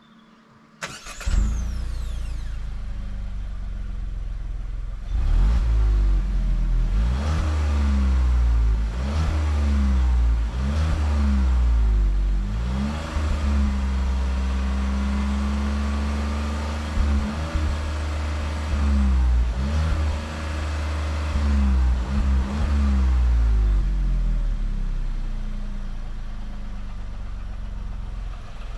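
The 2024 MG ZST's 1.3-litre turbocharged three-cylinder petrol engine revving, its pitch rising and falling over and over, with one longer steady hold about midway. It settles into a lower steady note near the end.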